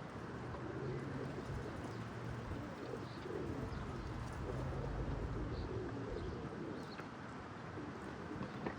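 Low, wavering, repeated bird calls under steady wind noise on the microphone, with a few faint high chirps.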